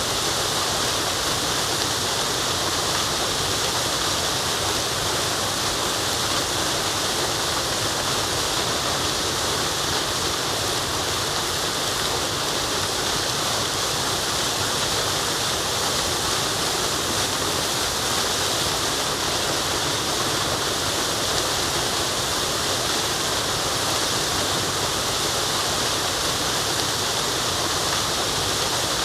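Waterfall running in a steady, unbroken rush of water, mostly a high hiss.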